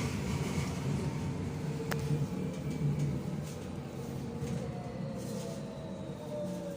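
Hamburg U-Bahn DT4.5 metro train running with the whistling sound of its drive, the whistle falling slowly in pitch as the train slows, over a steady rail rumble. There is a single sharp click about two seconds in.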